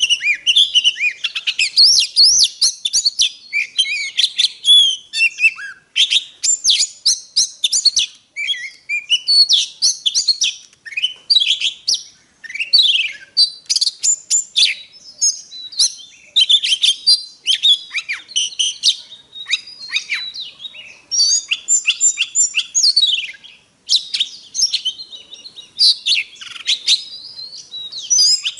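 Oriental magpie-robin singing a long, varied song of rapid whistles, chirps and sweeping notes, with a few short pauses.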